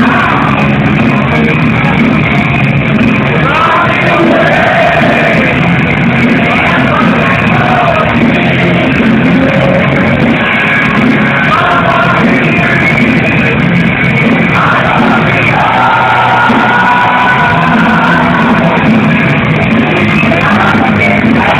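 Live power metal band playing loud and without a break: a male lead singer holds long sung notes over distorted guitars, bass and drums.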